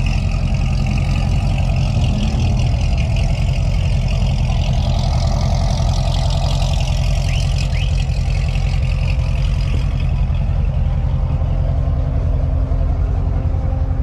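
Car engine idling steadily and loudly, the sound heavy in the low end.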